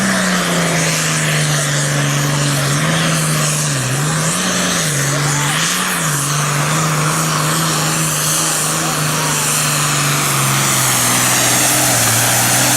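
A Super Farm class pulling tractor's diesel engine runs hard under load down the track. Its pitch dips and recovers twice, about four and six seconds in, and a high whine builds through the second half.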